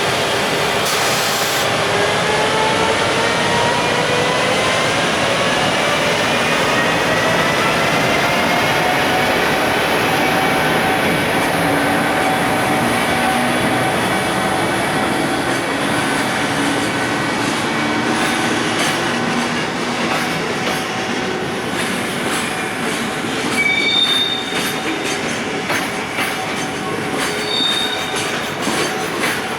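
A container freight train, an EF510 electric locomotive hauling Koki container wagons, running past as it pulls away. A whining tone rises in pitch over the first ten seconds and then holds steady over the rolling noise, and wheel clicks and brief squeals come in near the end.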